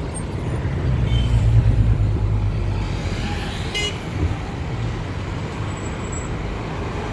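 City road traffic: a motor vehicle's engine rumble swells as it passes close, loudest between about one and three seconds in, over steady traffic noise. A brief high-pitched tone sounds about four seconds in.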